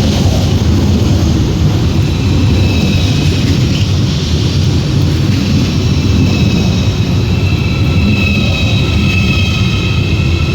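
A train moving through the station: a loud, steady rumble with high whining tones that come in a couple of seconds in and grow stronger near the end.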